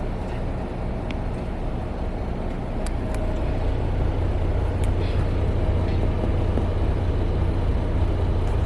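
Parked semi-truck's diesel engine idling with a steady low rumble, which grows a little louder about three and a half seconds in.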